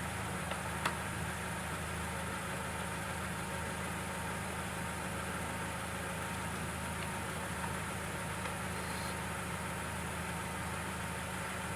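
Briggs & Stratton push-mower engine running steadily with an even hum, with one faint click about a second in.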